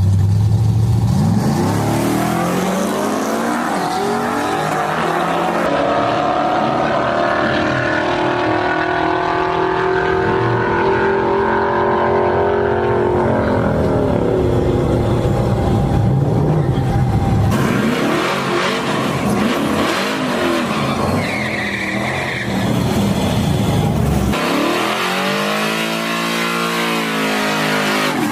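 Race truck's engine at full throttle, its pitch climbing and holding high for several seconds before fading away. Another engine revs up, rising in pitch, near the end.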